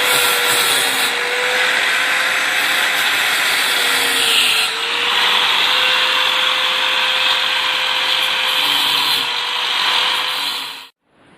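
Handheld electric grinder running steadily while grinding down the jeep's steel body to prepare it for paint, its motor pitch dipping slightly under load around four seconds in. It cuts off suddenly near the end.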